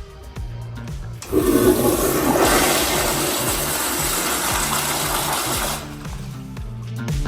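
A commercial restroom fixture flushing: water rushes in about a second in, gets fuller and brighter a second later, and stops after about four and a half seconds. Faint background music plays underneath.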